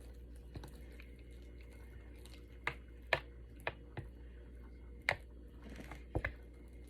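A fork spreading and smoothing thick mashed potatoes back and forth, with soft squishing and about half a dozen scattered light clicks of the tines.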